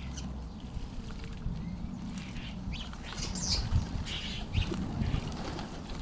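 Garden birds chirping in short, scattered calls, busier from about halfway through, with a few low thuds near the same time.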